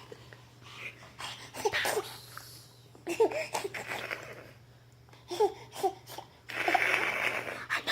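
Baby laughing and babbling in short breathy bursts, with a longer breathy laugh near the end.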